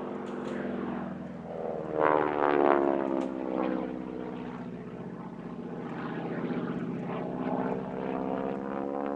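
North American AT-6C Harvard's nine-cylinder Pratt & Whitney R-1340 Wasp radial engine and propeller flying past. The pitch falls as it passes about two seconds in, then rises again near the end as it comes round.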